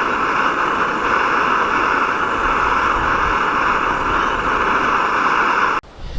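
Fire-Maple gas camping stove burner running with a steady hiss, heating water for a boil. The hiss cuts off suddenly near the end.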